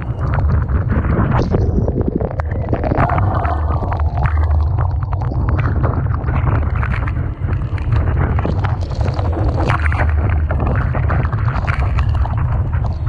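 Typhoon-force wind buffeting the microphone in a deep, constant rumble, over the noisy wash of storm-surge waves, with sharp gusts and spray spattering throughout.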